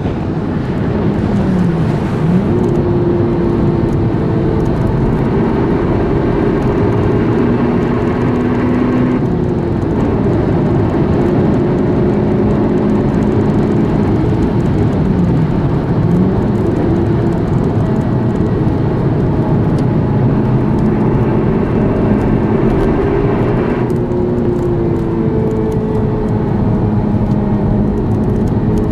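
Honda Civic Type R's 2.0-litre four-cylinder engine running under way, heard from inside the cabin over steady road and tyre noise. Its pitch drops and climbs again twice, and the upper part of the engine sound shifts twice more.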